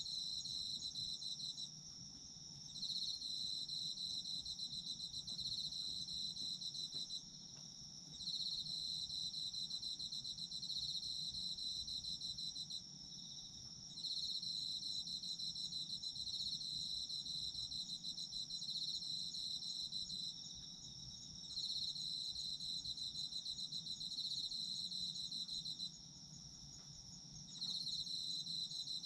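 Chorus of autumn insects singing. One trills in long phrases of several seconds, each broken off by a pause of about a second, over a steady, unbroken higher-pitched chirring from others.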